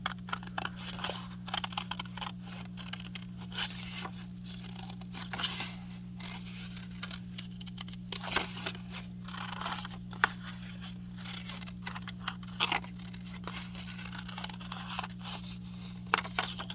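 Scissors cutting through folded paper: irregular snips and scraping rustles of the paper as the shape is cut out.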